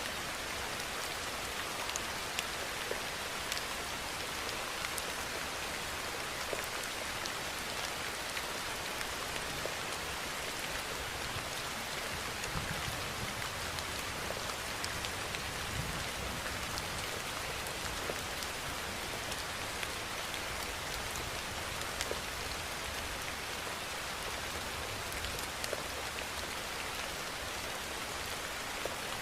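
Steady rainfall: an even hiss of rain with scattered single drops ticking on a surface.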